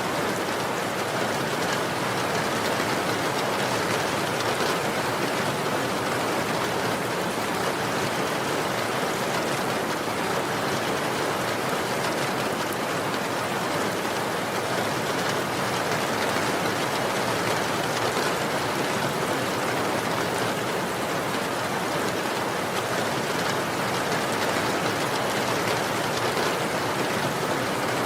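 Steady, even rainfall, a dense continuous patter of rain on surfaces with no distinct single drops or thunder.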